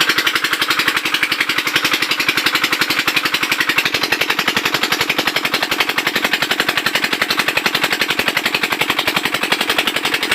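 Small single-cylinder diesel engine of a Chinese shallow-machine water pump running steadily, with an even, fast chug of about seven or eight firing beats a second.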